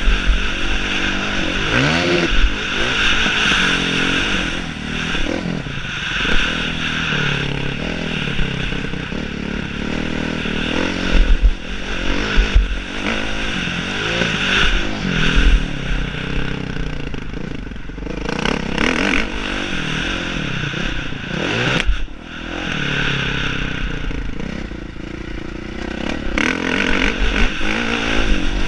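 Motocross bike engine revving up and down over and over, with clattering and occasional sharp knocks.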